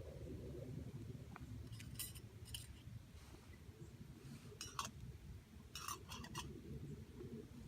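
Wood campfire being started: a low steady rumble with scattered sharp crackles and snaps, a cluster of several about three quarters of the way through.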